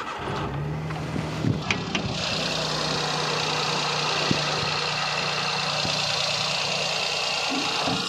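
Maruti Alto's 800 cc three-cylinder petrol engine catching just after starting and settling into a steady idle. A steady hiss joins about two seconds in. The seller judges the engine to be in excellent condition.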